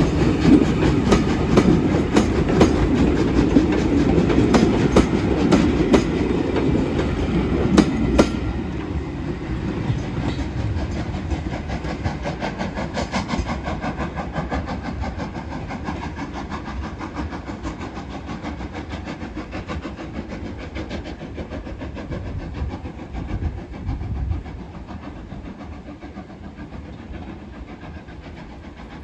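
Steam-hauled train departing behind Caledonian Railway 812 Class locomotive No. 828, its wheels clicking over the rail joints. It is loud for the first several seconds, drops off about eight seconds in, and then fades steadily as the train draws away.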